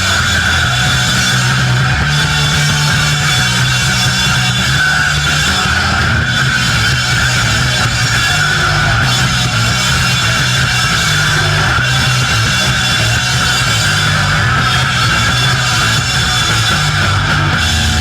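A punk rock band playing live, loud and dense: distorted guitar over bass and drums, with no let-up.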